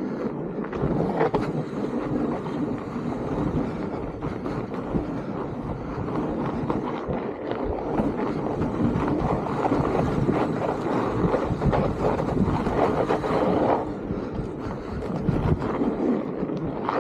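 Steady rumble and rustle with many small clicks and wind buffeting on the microphone, typical of an electric fatbike being ridden.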